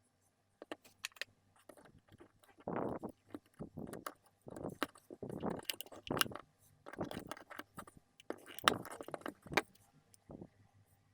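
Plastic housing of a Xiaomi Mijia automatic soap dispenser being forced open, giving irregular sharp clicks, snaps and short scraping crackles. The case has no screws, so it is being pried apart by force.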